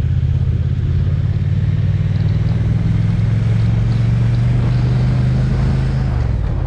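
Triumph Speed Twin's parallel-twin engine running steadily under way, with wind and road noise; near the end the engine note drops as the throttle eases off.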